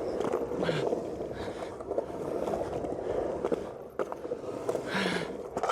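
Skateboard rolling through a bowl: a steady roll noise from the wheels, with short clicks and knocks along the way.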